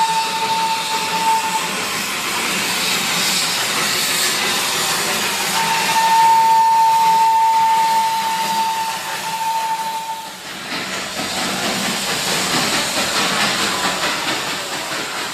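Darjeeling Himalayan Railway toy train whistle sounding a steady single note twice: a short blast ending about a second and a half in, then a longer one of about four and a half seconds, over a constant loud hiss from the train.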